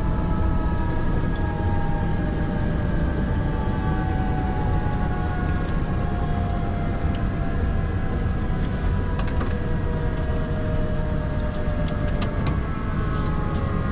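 Tour helicopter's turbine engine and rotor running with a steady low drone, the turbine whine slowly falling in pitch. A few short clicks near the end.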